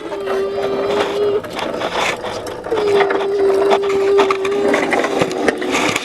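Clicking and rattling of a Tonka mini toy garbage truck being worked, over a steady whine that breaks off about a second and a half in and comes back near three seconds.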